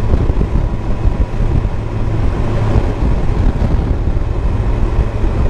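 Motorcycle ridden at highway speed, heard from a helmet-mounted camera: a steady low engine-and-road rumble with wind rushing over the camera.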